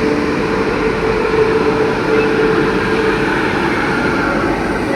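Electric locomotives hauling a departing train: steady, loud running noise with a droning hum.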